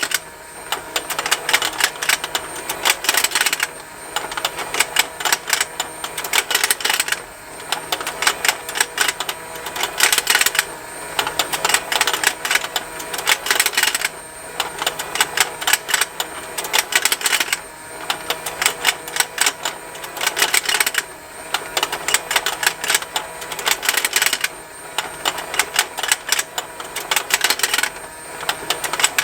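Plastic rotating fishing-game toy running on its motor: a rapid, continuous plastic ticking over a faint motor hum. The ticking gets louder in stretches that come back about every three and a half seconds.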